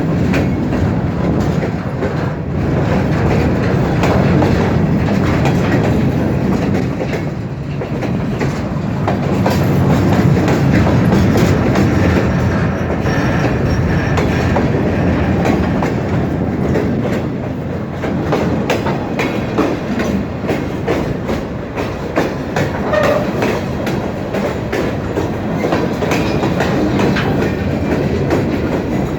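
Great Lakes Central freight train rolling past, its car wheels clicking steadily over the rail joints, with a short faint wheel squeal about three quarters of the way through.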